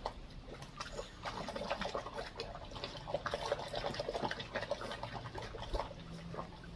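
Small Shih Tzu–Maltese cross dog splashing in a muddy puddle, with a quick, irregular run of wet slaps and splashes that is busiest in the middle.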